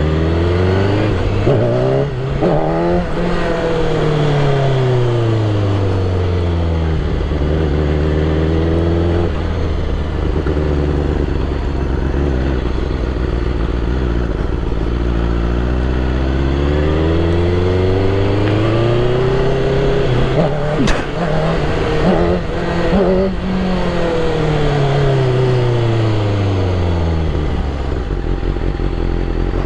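BMW S1000RR superbike's inline-four engine accelerating hard for wheelie attempts. It revs up and eases off twice, each a slow rise and fall in pitch.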